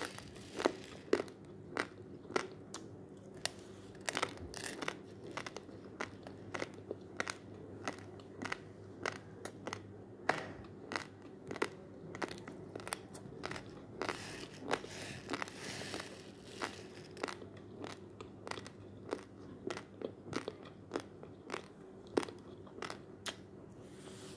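Dry, uncooked basmati rice grains being crunched between the teeth: an irregular run of sharp crunches, roughly one or two a second, over a faint steady hum.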